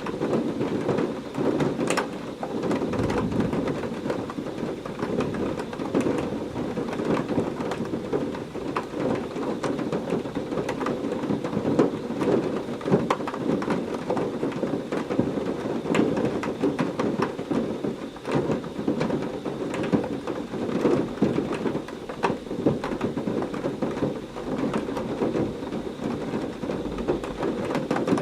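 Heavy rain falling steadily, a dense patter of drops with sharp close splashes, and low rumbles of thunder about three seconds in and again near the end.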